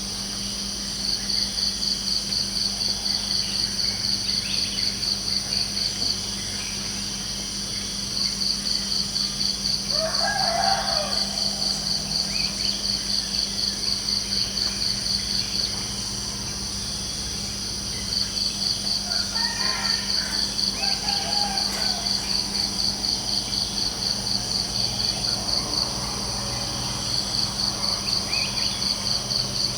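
Cricket chirping in rapid pulsed trills that run for several seconds and pause briefly, over a steady insect drone. A rooster crows about ten seconds in and again around twenty seconds.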